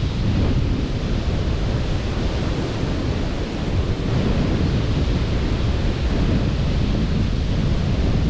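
Sea surf and wind at a beach, a steady noise with no breaks, strongest in the low end, with wind on the microphone.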